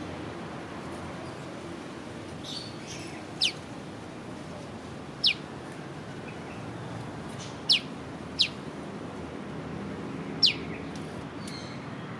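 A prenjak lumut gives its call, a sharp downward-slurred 'piw' whistle. It calls five single notes a second or two apart, over faint fainter chirping.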